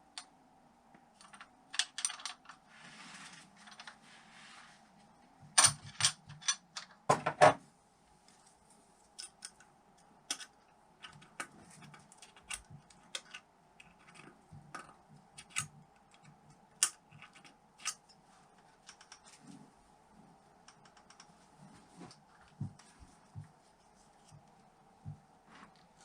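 Irregular light clicks and metallic taps of hand tools being handled on a motorcycle engine, with a louder cluster of knocks about six to seven seconds in. A short hiss comes around three seconds in.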